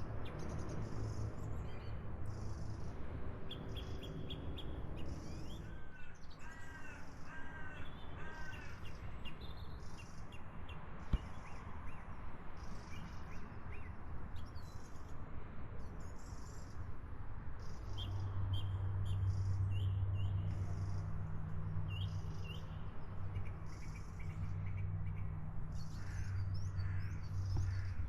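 Birds calling, including a quick series of arched notes early on, over a high insect chirping that repeats evenly a little more than once a second; a low steady hum comes in about two-thirds of the way through.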